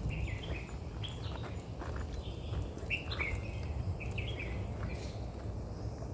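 Birds chirping: short high chirps repeated every second or so, over a steady low rumble.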